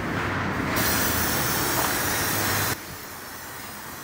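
Aerosol can of brake cleaner spraying in a long, loud hiss, cutting off abruptly a little under three seconds in.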